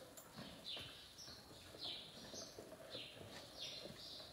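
Faint small-bird chirps, repeated about twice a second, each a quick downward sweep, with a few soft knocks beneath.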